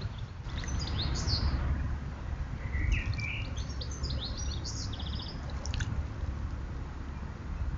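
Small birds chirping and calling in short high notes, with a quick run of repeated notes about five seconds in, over a steady low rumble.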